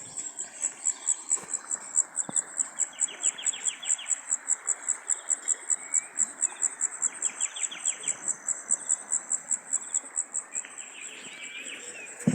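Insect, likely a cricket, chirping in a steady high-pitched pulse of about five chirps a second, over a faint outdoor hiss. Three short buzzy trills sound behind it.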